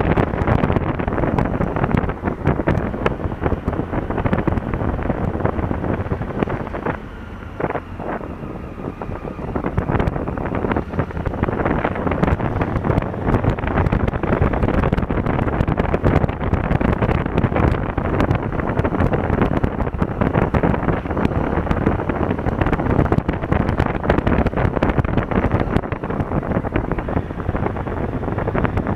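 Wind rushing over an action camera's microphone on a moving Honda Africa Twin CRF1000L motorcycle, with the engine running underneath. The rush eases briefly about seven seconds in.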